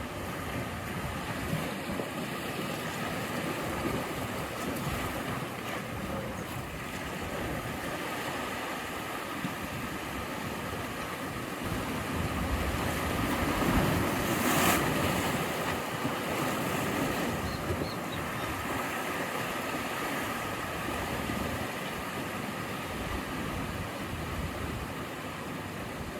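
Sea waves washing in with a constant surf hiss; about halfway through a bigger wave swells and breaks with a sharp crash, the loudest moment.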